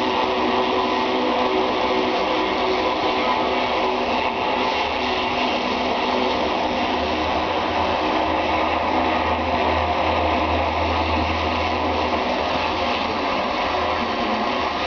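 Pressure washer running steadily, its motor and pump giving a constant hum under the hiss of the high-pressure water spray. A low hum swells for a few seconds in the middle.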